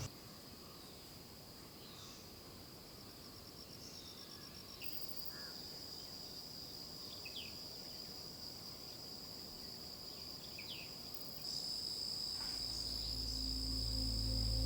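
Insects trilling in a steady high-pitched chorus that grows louder about five seconds in and again near eleven seconds, with a few brief bird chirps. Soft music fades in near the end.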